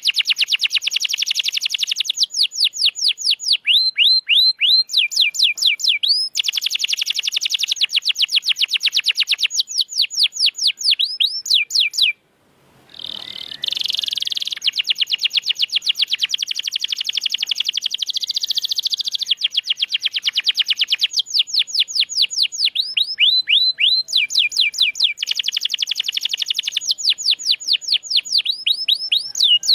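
Domestic canary singing: rapid rolling trills of fast, repeated downward-sweeping notes, the phrases shifting pitch every second or two. The song breaks off briefly about twelve seconds in, then resumes.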